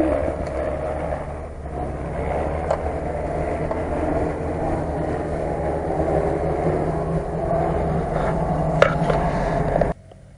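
UAZ-469 off-road vehicle's engine running steadily under load as it climbs a slope, with one sharp knock about nine seconds in. The sound drops away abruptly just before the end.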